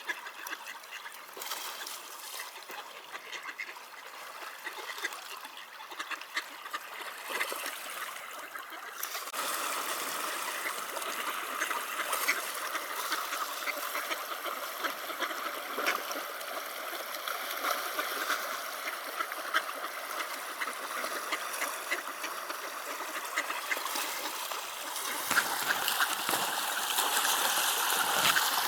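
Mallards quacking and splashing on the water over the steady rush of a flowing river, which grows louder near the end.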